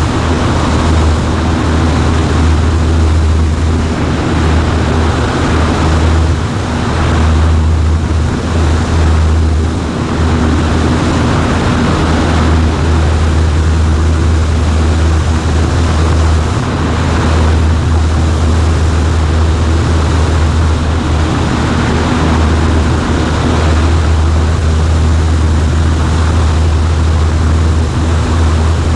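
Cessna 140A's piston engine and propeller running steadily, a loud low drone with rushing air noise, heard from inside the small cabin.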